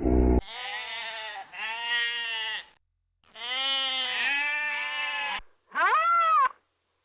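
Bleating livestock: three long, wavering bleats, then a shorter call near the end whose pitch rises and falls. A low rumble cuts off just at the start.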